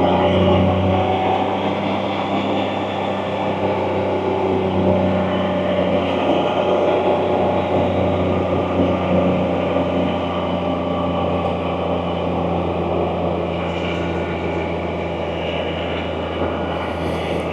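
Can-Am Spyder's engine running at a steady cruise, an even drone that holds its pitch, over wind and road noise.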